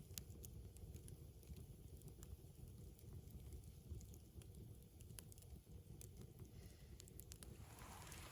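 Small wood fire crackling faintly, with scattered sharp pops and snaps over a low steady rumble.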